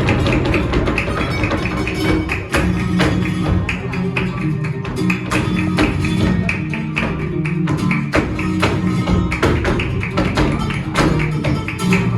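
Flamenco music: guitar with many sharp percussive taps throughout, starting abruptly just before.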